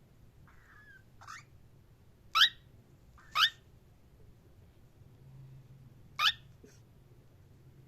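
Cockatiel giving short, sharp chirps that rise in pitch: two loud ones about a second apart, a third about three seconds later, and a few fainter calls between.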